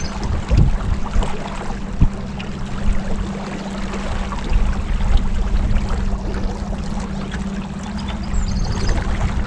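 Motorboat under way: a steady engine hum under a rushing of water and wind, with a few knocks.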